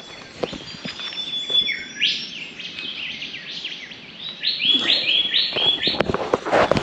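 Wild birds singing in bushland: scattered chirps, then about two seconds in a song starts, becoming a run of repeated whistled notes about three or four a second in the second half. Scattered light clicks sound underneath.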